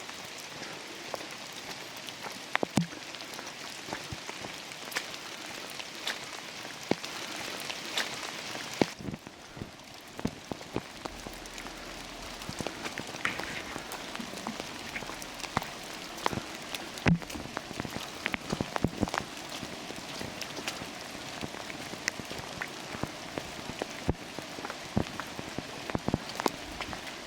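Rain falling in a forest: a steady hiss of rainfall with irregular sharp taps of single drops striking nearby surfaces. The hiss thins out about nine seconds in.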